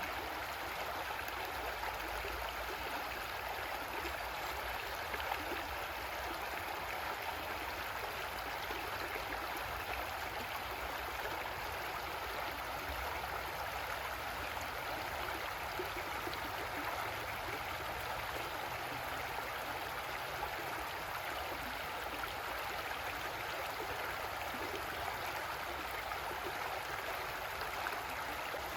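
Creek water flowing and babbling over rocks, a steady rushing and gurgling.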